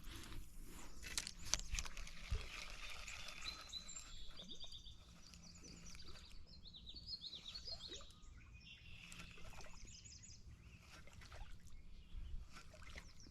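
Outdoor ambience with small birds chirping in repeated quick runs of notes, over a faint low steady hum and a few scattered faint clicks.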